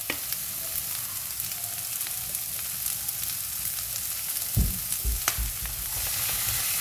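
Onion and capsicum sizzling steadily in hot oil in a frying pan on high flame, just after soy sauce went in. A spatula stirs and knocks against the pan a few times, mostly around the middle.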